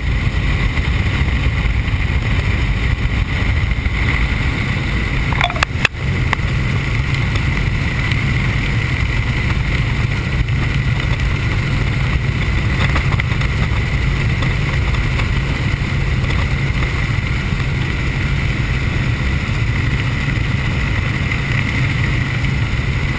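Helicopter in flight: steady, loud rotor and engine noise with a constant whine. A brief cluster of clicks about six seconds in.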